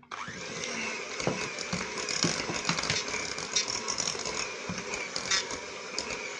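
Electric hand mixer switched on and beating eggs into thick choux-style dough in a bowl, a steady motor whir with rattling clicks of the beaters against the bowl.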